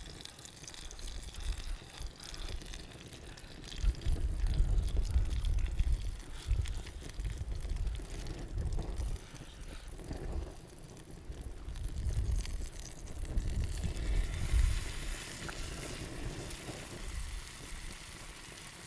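Wind buffeting the microphone in uneven rumbling gusts, strongest about four seconds in and again from about twelve seconds.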